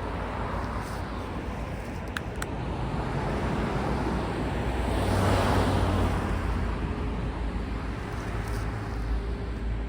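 A vehicle passing: a broad rushing noise swells to a peak about halfway through and fades, over a steady low engine hum.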